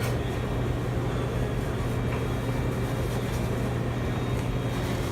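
Steady low hum under an even, muffled background noise, with no distinct events.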